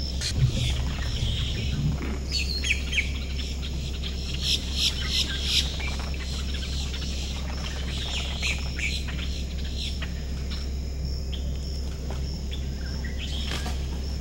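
Several wild birds chirping and calling in quick, overlapping bursts, busiest in the first half. An evenly repeating high note and a steady low hum run underneath.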